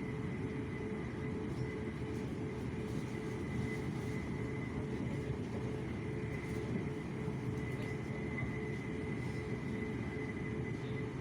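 Passenger train running steadily, heard from on board: a constant low rumble with a faint, steady high tone above it.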